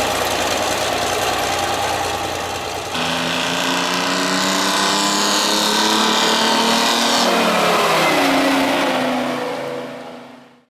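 Heavy truck diesel engines running. A low, deep-pitched rumble gives way abruptly, about three seconds in, to a higher-pitched engine note that holds steady for a few seconds. That note then falls in pitch as the engine winds down, and the sound fades out at the end.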